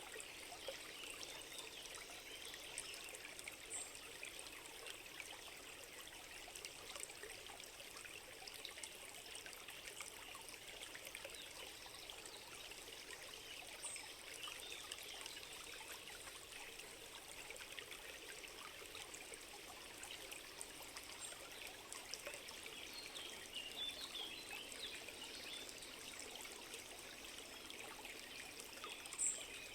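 A small stream trickling and gurgling steadily, with scattered faint high chirps above it and one short, sharper high chirp near the end.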